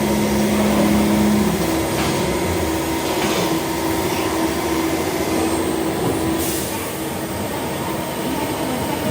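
Machinery running steadily with a held hum, whose pitch steps up about a second and a half in, and a few light knocks.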